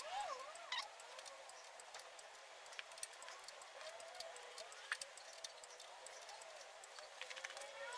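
Faint bird calls over low background noise, with a few light sharp clicks, one just under a second in and another about five seconds in.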